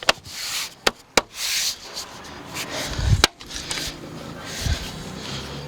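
Plastic interior trim panel being handled and pushed into place: rubbing and scraping with several sharp clicks early on, and a couple of dull knocks later.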